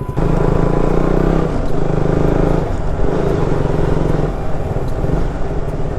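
Motorbike engine running while riding, its pitch dipping briefly about a second and a half in and again near three seconds as the revs drop and pick up.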